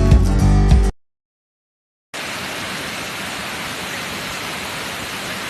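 Guitar music cuts off about a second in, and after a second of silence the steady rushing of the Nuranang waterfall begins.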